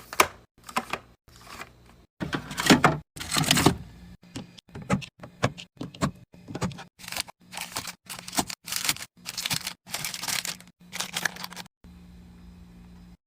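Food packaging and plastic containers being handled and set down while stocking a fridge: a run of short rustling, crinkling and clacking noises, irregular in pace. About twelve seconds in they stop, leaving a steady low hum.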